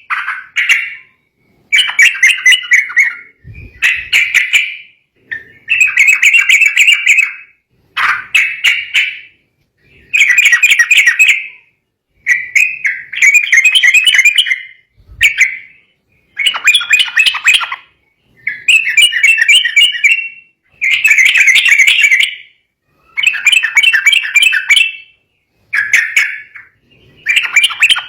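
Yellow-vented bulbul (trucukan) singing in an agitated state: loud, bubbling chattering phrases of one to two seconds, repeated about every two seconds with short pauses between.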